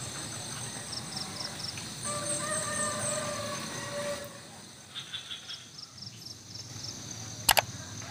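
Rural morning ambience: insects keeping up a steady high hum, small birds giving short rapid chirp series, and a rooster crowing once for about two seconds a couple of seconds in. Two sharp clicks come close together near the end.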